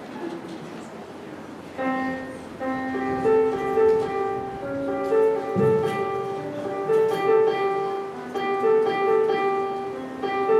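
Solo piano playing a simple piece of short, repeating notes in an even rhythm. The playing begins about two seconds in, after a brief stretch of room sound.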